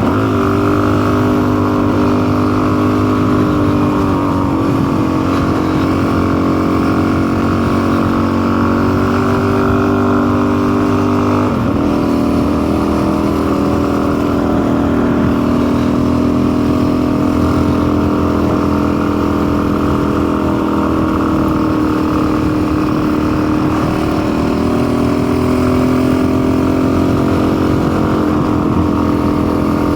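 Custom-built motorcycle's engine running under way, its note drifting up and down with the throttle. The pitch drops suddenly about eleven and a half seconds in.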